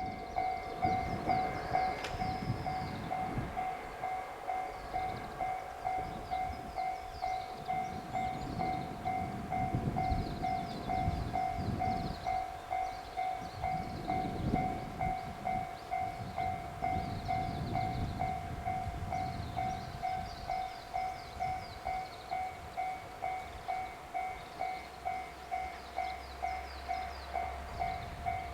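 Level-crossing warning bell ringing in a steady rapid ding-ding pattern, about two strikes a second, while a train passes with a rumbling, rattling noise. The train noise thins out over the last few seconds and the bell keeps ringing.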